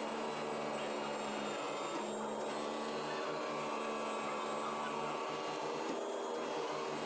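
Automatic CNC fabric cutting machine running: a steady motor hum with several fixed tones and a pulsing low note, shifting slightly about two seconds in and again about six seconds in.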